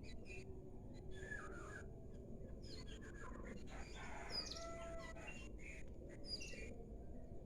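Small birds chirping in short, repeated high calls, over faint steady background noise.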